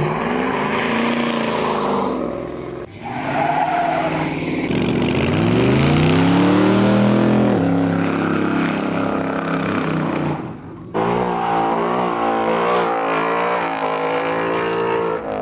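Car engine revving hard: it climbs steeply about five seconds in and holds at high revs, cuts out briefly near eleven seconds, then blips up and down repeatedly, with a hiss of tyre noise under it.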